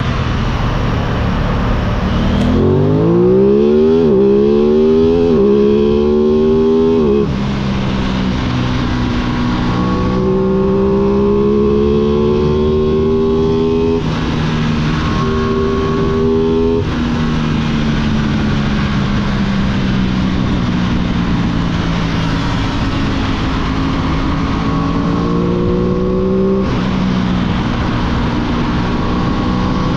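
Aprilia 660 parallel-twin motorcycle engine accelerating hard, its pitch climbing through about three quick upshifts in the first seven seconds. It then runs on at steadier revs that rise and fall gently, with a few more shifts or throttle changes along the way.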